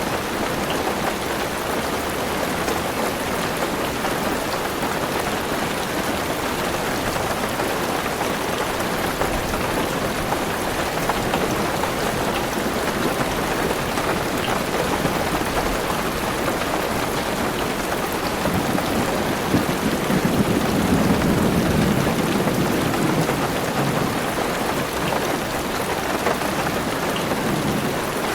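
Heavy rain falling steadily on a car roof, heard from inside the car. About two-thirds of the way through, a low thunder rumble swells up and fades.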